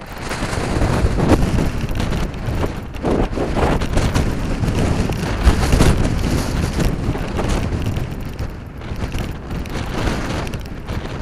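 Strong gusting wind buffeting the microphone, a loud rushing that surges through the first half and eases off toward the end.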